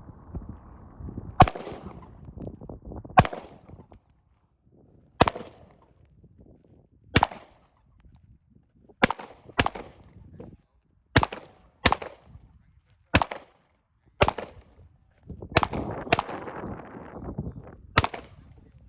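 Glock 21 pistol in .45 ACP firing about thirteen single shots, one every one to two seconds, with a few quick pairs.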